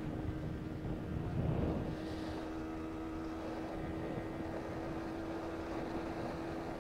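Yamaha R15 V3's single-cylinder engine cruising at speed in fifth gear, a steady, unchanging drone, with wind buffeting the microphone, heaviest in the first two seconds.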